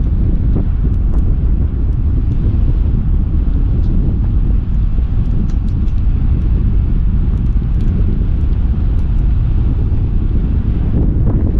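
Wind buffeting the microphone of a camera riding along on a moving bicycle: a loud, steady low rumble, with a few faint light ticks.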